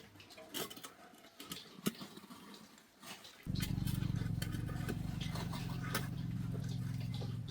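Light clicks and taps of hand tools on metal parts, then about halfway through a steady low machine hum starts abruptly and keeps running evenly.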